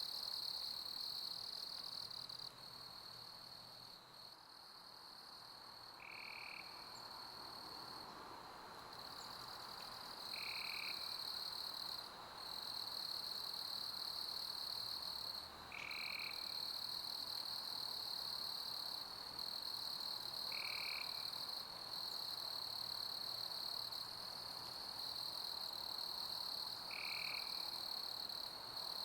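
A chorus of summer crickets trilling continuously in a high steady band, which thins for several seconds soon after the start, with a short lower chirp repeating every four to six seconds, over a soft steady hiss of pink noise.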